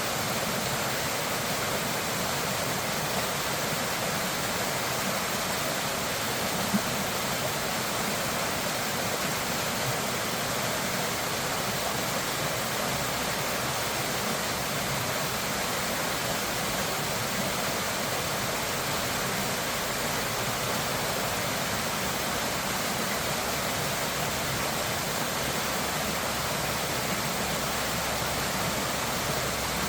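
Steady rush of fast-flowing water, an even noise of floodwater or a waterfall pouring, with one brief click about seven seconds in.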